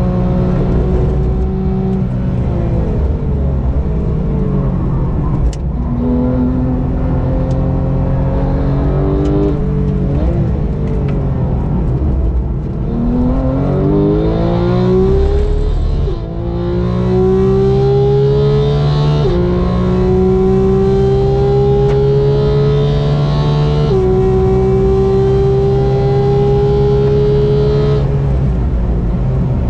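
Sports car engine driven hard, with the pitch falling off and then climbing steeply under acceleration. It upshifts with a sudden drop in pitch about two thirds of the way through and again near the end, climbing slowly after each shift.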